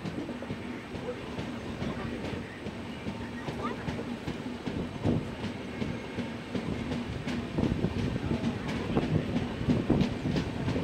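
Passenger train gathering speed, heard from an open coach window: wheels clacking over rail joints over a steady rumble and hum, growing louder, with the clacks coming quicker toward the end.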